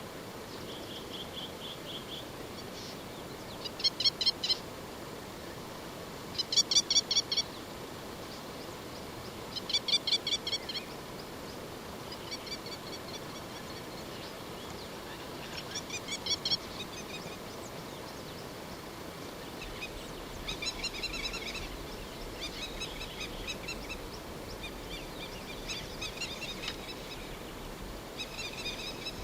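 A bird calling over and over in short phrases of rapid pulses, the first three loud and the later ones softer, over a steady faint background hiss.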